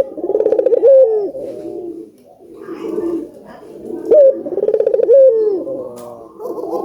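Ringneck dove (burung puter) cooing loudly, twice, about four seconds apart. Each call is a sharp upward note, a fast rolling trill and a falling closing note, with softer low coos in between.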